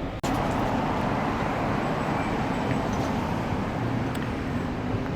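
Steady city traffic noise. It starts abruptly after a brief dropout about a quarter second in.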